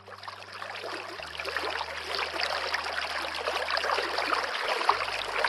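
Steady rush of running water with fine crackling and splashing detail.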